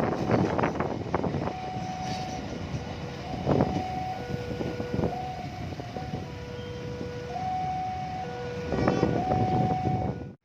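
Railway level crossing warning alarm sounding a steady high-low two-tone pattern, each note held under a second, over rumbling noise from the railway that is loudest at the start.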